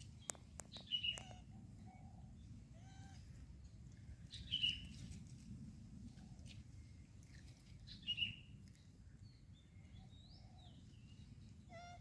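Short high-pitched animal chirps, loudest three times (about a second in, near the middle, and about two-thirds through), with a few sharp clicks near the start over a steady low rumble.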